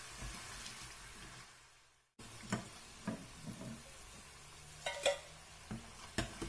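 Murukku (rice-flour dough spirals) sizzling as they deep-fry in hot oil, with a slotted metal spatula scraping and tapping against the pan as the spirals are turned and lifted; one ringing clink about five seconds in. The sound cuts out briefly about two seconds in, then resumes.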